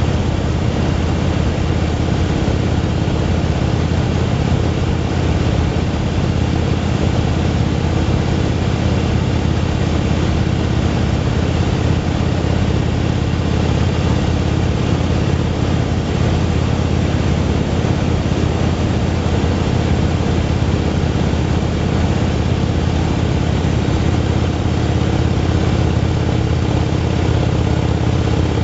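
Motorcycle engine running steadily at cruising speed, with wind and road noise over it; the pitch and loudness hold even throughout.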